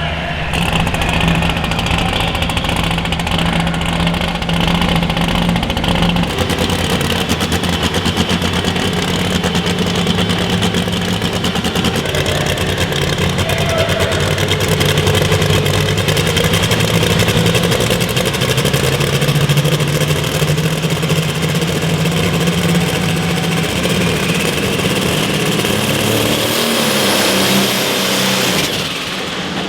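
Competition pulling vehicle's engine running at high revs under load. Its pitch holds fairly steady with small shifts, then it eases off near the end.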